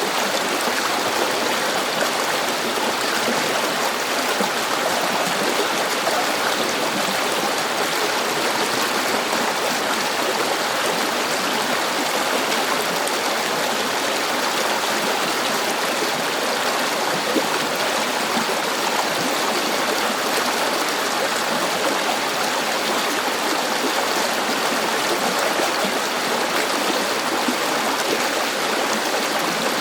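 A river flowing over stones, a steady rushing and babbling of water.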